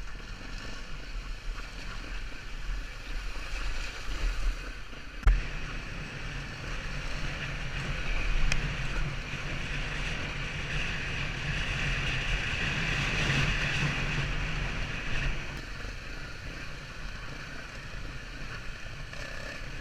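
A steady low engine hum under wind noise, with a single sharp knock about five seconds in.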